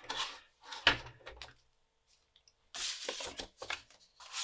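Handling a 5.25-inch floppy disk at the drive: a sharp clunk about a second in, then short sliding, rubbing scrapes as the disk is drawn out to be flipped over.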